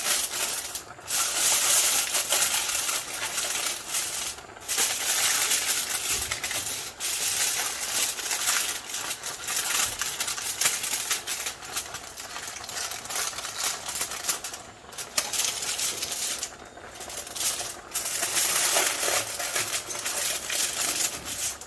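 Baking paper and aluminium foil crinkling and rustling as they are pressed and folded over a paella pan, in irregular crackly spells with short pauses.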